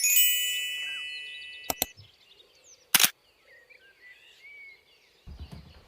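A bright ringing chime that fades away, then sharp clicks: a quick pair followed by a single louder one a second later, like a camera shutter. Small birds chirp faintly after the clicks, and a low rumble starts near the end.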